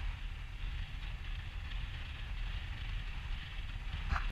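Wind and motorcycle noise while riding at highway speed: a steady low rumble of wind on the microphone, engine and tyres, with a steady hiss above it.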